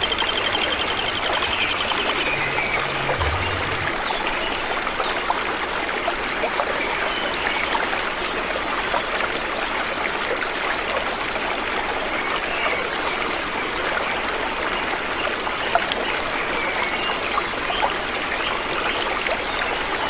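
Forest ambience: a steady rush of running water, with faint scattered bird chirps over it. A fast, pulsing high trill runs for about the first two seconds, then stops.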